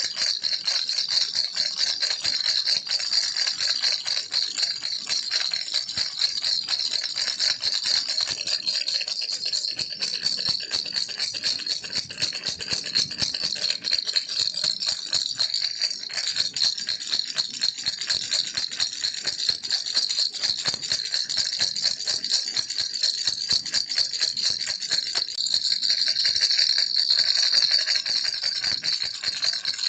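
Baby rattle shaken continuously: a dense, fast clatter of small beads or pellets inside a toy rattle, high and bright, without a break, getting a little louder near the end.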